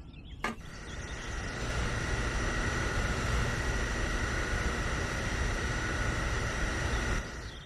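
Small motor running steadily with a high whine. It starts about half a second in, builds for a second or so, and stops just before the end.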